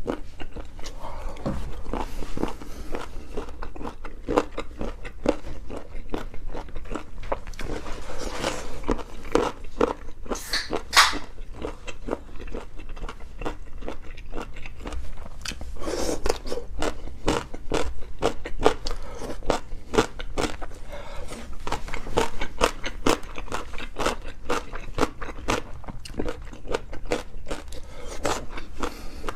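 Close-miked chewing and biting of food, with many crisp, irregular crunches and crackles and a louder burst about ten seconds in.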